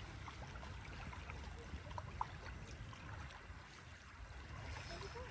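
Wind rumbling on the microphone beside a lake, with faint lapping water and a few small clicks.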